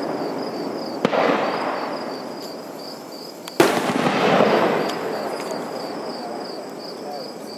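Two aerial firework shells bursting about two and a half seconds apart, each a sharp bang followed by a long rolling echo; the second is the louder. Insects chirp in a steady rhythm in the background.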